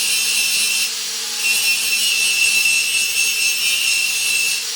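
Angle grinder grinding steel: a loud, rasping grind with a high whine, lifting off briefly about a second in, then grinding again until just before the end.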